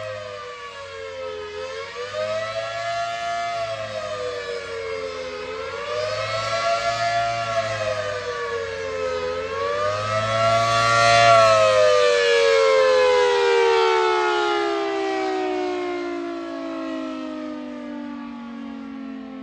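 Large outdoor tornado warning siren wailing, its pitch rising and falling about every four seconds. About eleven seconds in it winds down in a long falling glide as it shuts off.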